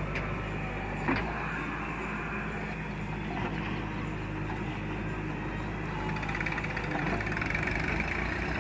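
JCB 3DX backhoe loader's diesel engine running steadily while loading soil, with a short metallic clank about a second in. The engine grows a little louder near the end.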